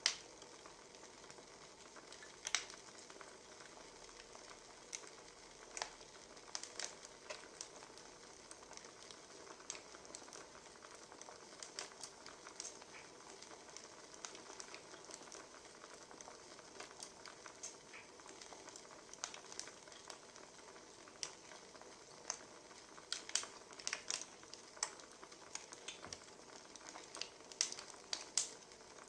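Wood fire crackling: irregular sharp pops and snaps over a soft steady hiss, coming in quicker clusters near the end.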